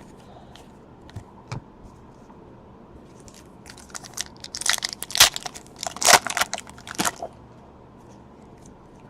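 Crinkling and tearing of a foil trading-card pack wrapper being ripped open by hand, in a burst of sharp rustles lasting a few seconds after a couple of light clicks.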